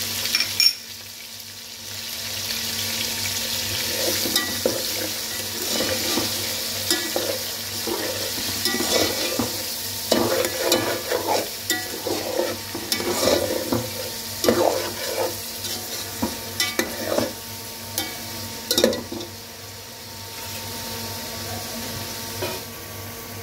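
Chicken and onions frying in hot ghee with a steady sizzle, while a utensil stirs and scrapes them around the pot in short, uneven strokes. A sharp knock comes just under a second in, and the stirring eases near the end, leaving the sizzle.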